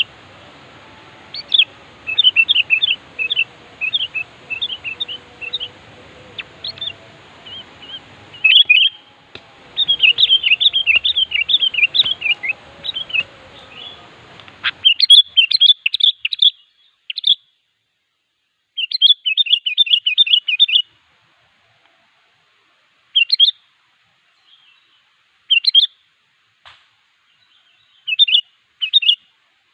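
Sooty-headed bulbul (kutilang) singing loudly, in rapid chattering phrases of short, sharp notes. For the first half the song sits over a steady background hiss, which cuts off abruptly about halfway; after that the phrases come in separate bursts with pauses between them.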